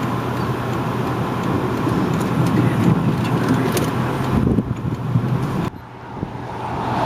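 Steady rumble of a car driving, with road and wind noise, dropping off suddenly about five and a half seconds in and building again near the end.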